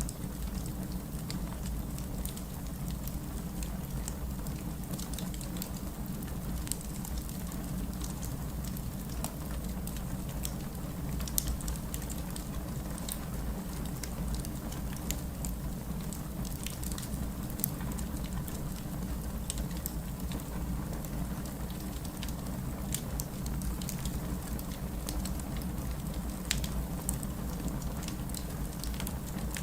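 Steady heavy rain, a constant noisy rumble, with a wood fire crackling over it in frequent irregular sharp pops.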